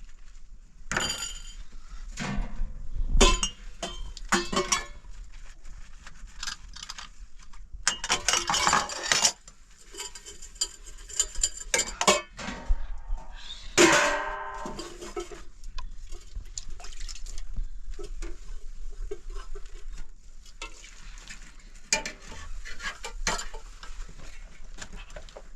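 Irregular clinks, knocks and clatter of hard objects being handled, with a dense run of clatter about eight seconds in and a short pitched sound about fourteen seconds in.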